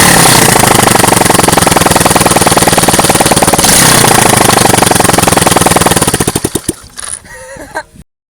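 A 110cc motorcycle engine running loud with no muffler on the exhaust, a fast rapping beat. It is revved twice, at the start and again about three and a half seconds in, each time sinking back. About six seconds in the firing slows and the engine dies away.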